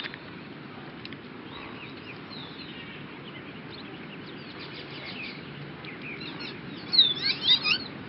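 Small birds chirping and twittering in the background, with a louder run of quick chirps about seven seconds in, over a steady outdoor hiss.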